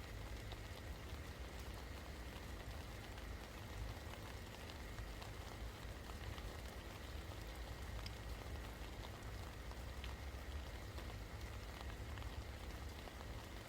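Steady rain falling, with scattered individual drops ticking over an even hiss and a low rumble underneath.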